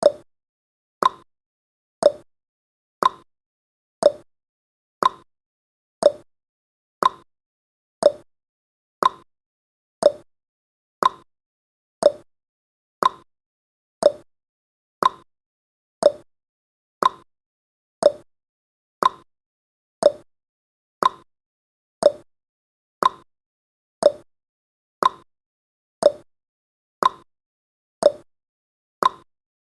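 Clock tick-tock sound effect of a countdown timer: one short, sharp tick every second, alternating slightly higher and lower in pitch.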